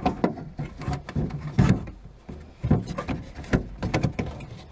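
Irregular clicks, knocks and rubbing of hand-worked parts inside a car door as the door lock mechanism is worked free of its release cable, one louder knock about a second and a half in.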